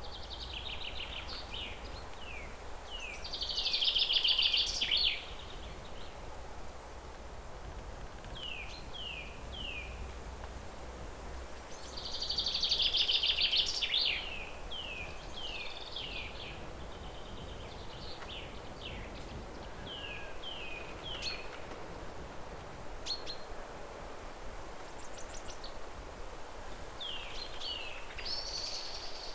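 Songbirds singing: repeated short falling chirps, with two louder, rapid trilled phrases about four seconds and about thirteen seconds in, over a steady low background noise.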